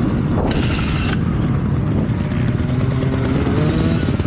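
Motocross bike engines running close by, with one engine revving up, its pitch rising, about three seconds in. A brief burst of hiss comes about half a second in.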